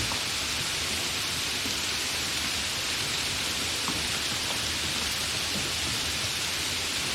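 Steady, continuous rain: an even hiss with a few faint drop ticks here and there.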